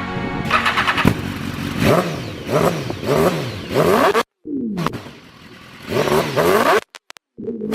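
BMW HP4's 999 cc inline-four sport-bike engine revving, its note repeatedly rising and falling, breaking off abruptly twice.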